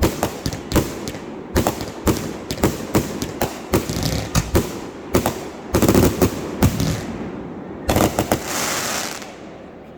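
Fireworks going off in rapid succession: many sharp bangs, several a second, with a louder cluster of booms about six seconds in and a dense rush of noise about eight seconds in, then dying away near the end.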